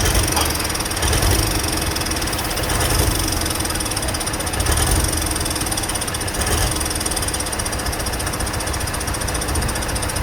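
A large engine idling steadily, with a low rumble that swells every second or two over a constant hiss.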